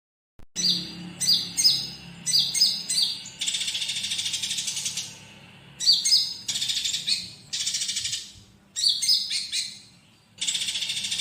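Konin songbird singing: quick runs of sharp, high, falling chirps, each followed by a fast buzzy trill, the cycle repeated three times. The song starts about half a second in, out of silence.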